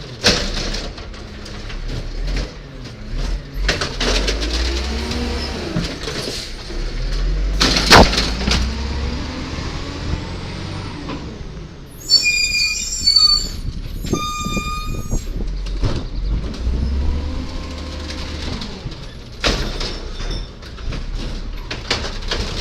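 1999 Volvo diesel garbage truck with an Amrep Octo automated side-loader body working its route: the engine rumbles and revs up and down while metal clanks and knocks sound, with one sharp loud bang about eight seconds in. Two short high-pitched squeals come about twelve and fourteen seconds in.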